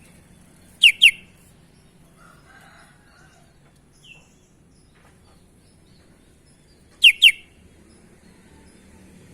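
Sooty-headed bulbul (kutilang) calling: a pair of short, sharp notes, each sweeping steeply down in pitch, about a second in, then the same pair again about seven seconds in.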